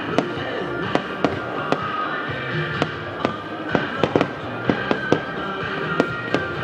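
Fireworks bursting: irregular sharp bangs and pops, several a second at times, over music playing from the show's sound system.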